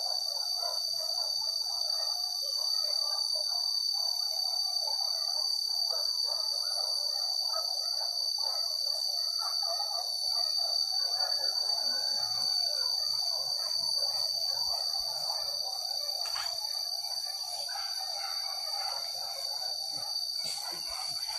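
Forest ambience: a steady, high-pitched insect drone that never lets up, over a busy, chattering layer of bird calls.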